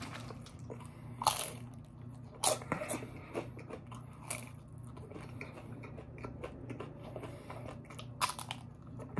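Close-up biting and chewing of a crunchy fried taco shell, with sharp crunches about a second in, twice around two and a half seconds, once past four seconds and twice near the end. A steady low hum runs underneath.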